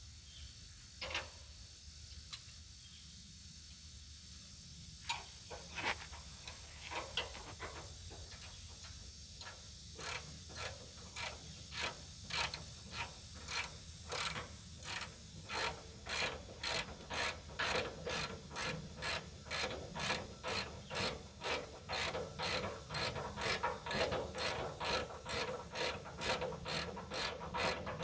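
Hand ratchet wrench clicking steadily as a cab shock mounting bolt is tightened, with a few scattered clicks at first, then a regular run of about two to three clicks a second that grows slightly louder.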